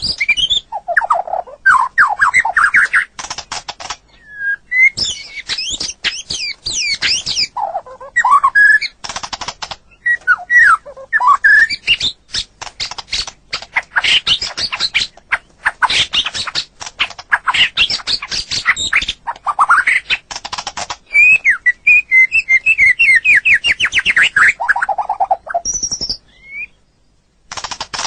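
White-rumped shama (murai batu) singing a long, varied song of loud swooping whistles, fast trills and rapid chattering phrases, with a short pause near the end.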